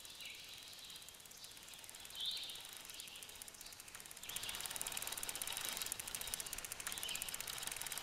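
Woodland birds chirping in short calls, with a steady high hiss that grows louder about four seconds in.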